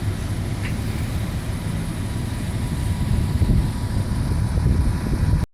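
Heavy vehicle engine idling, a low steady rumble; the sound cuts off abruptly near the end.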